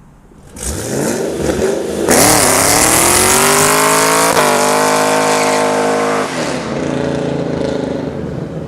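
A motor vehicle engine accelerating. Its pitch climbs and holds high about two seconds in, then drops off about six seconds in and keeps running lower, fading near the end.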